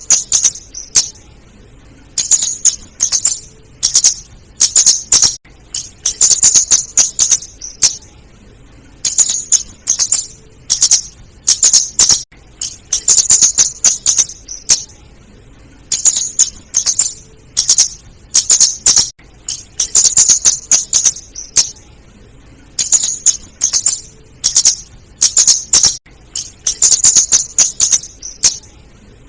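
Female flowerpecker calling: bursts of rapid, very high, sharp chips, each burst lasting about a second, repeating every second or two.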